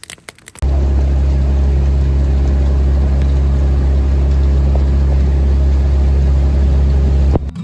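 An engine running steadily with a loud, low drone that starts abruptly a little under a second in and cuts off abruptly just before the end.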